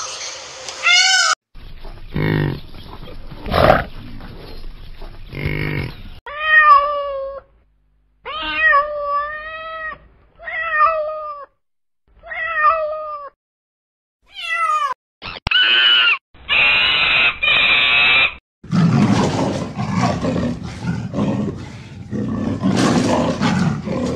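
A sequence of cut-together animal sounds: a peacock's call at the start, a cat meowing about six times in the middle, and a leopard growling near the end.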